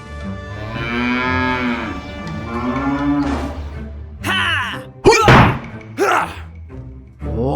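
Cow mooing, one long call then a shorter one, followed by several short sharp sounds, over steady background music.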